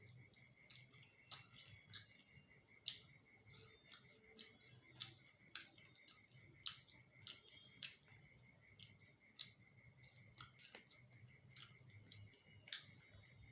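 Faint eating sounds: irregular sharp mouth clicks and smacks of chewing, about one or two a second, over a faint steady high-pitched whine.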